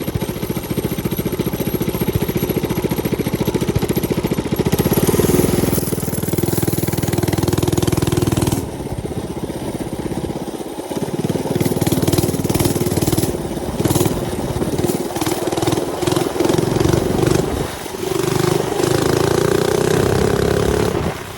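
Mini bike's small engine running under way, its note easing off a few times and climbing again near the end as the throttle changes.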